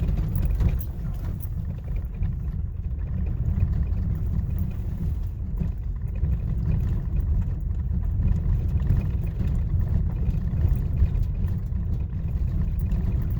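Steady low rumble of a truck driving along a road, engine and road noise heard from inside the cab.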